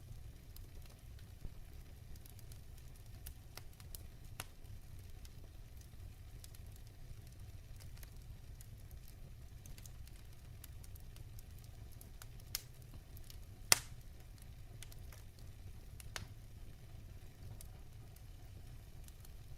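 Wood fire burning in a fireplace: a steady low rumble with scattered crackles and sharp pops from the logs, the loudest pop about three-quarters of the way through.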